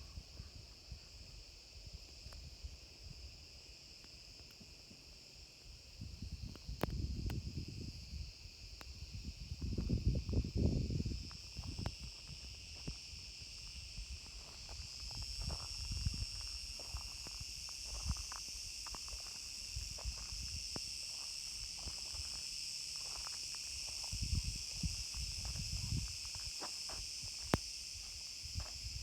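A steady, high-pitched chorus of insects shrilling, growing stronger about halfway through. Low, irregular rumbles come and go, the loudest about ten seconds in.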